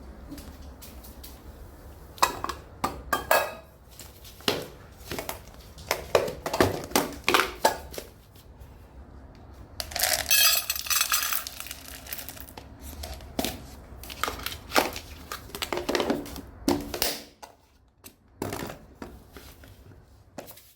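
Dishes and utensils clattering: a string of short clinks and knocks, with a denser noisy stretch of about two seconds about ten seconds in.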